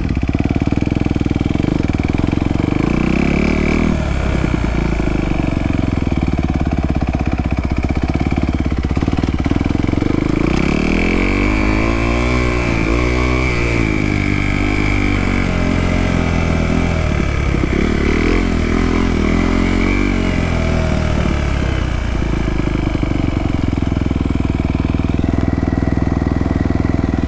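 Small 110cc Trailmaster TM15 dirt bike engine running and revving, its pitch rising and falling several times as the rider speeds up and eases off.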